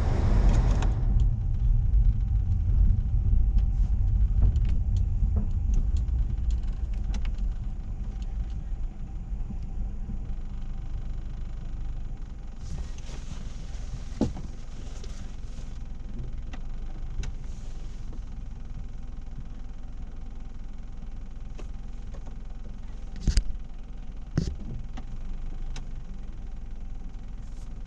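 Car running with a low rumble that is loud at first and settles to a quieter steady hum after about ten seconds, as if slowing to a stop. A few sharp clicks or knocks come near the end.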